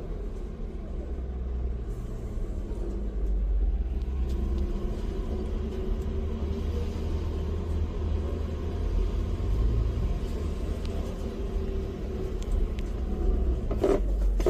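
Car in motion: a steady low rumble of engine and road, with a faint hum running through it.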